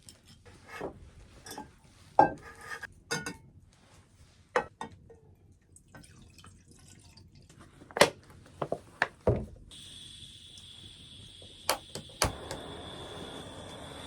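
Metal camping pot and dishes clinking and knocking as they are handled. From about ten seconds in comes a steady hiss of gas from a portable camping stove, then two sharp clicks, after which the burner lights and runs with a steady rushing sound.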